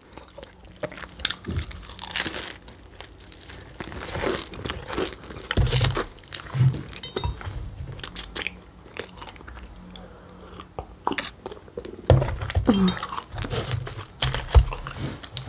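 A person chewing a pastry filled with strawberry and curd cheese, with a run of irregular crunchy bites and chewing sounds.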